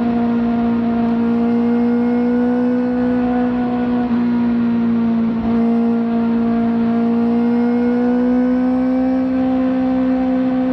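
Kawasaki ZX-4RR's inline-four engine, fitted with a slip-on exhaust, running at high revs under way. It holds a steady high-pitched note, dips briefly about halfway through, then climbs slowly in pitch.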